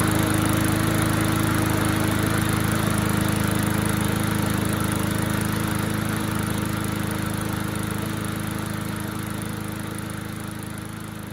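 Walk-behind lawnmower's small engine running steadily at a held throttle. It fades gradually toward the end.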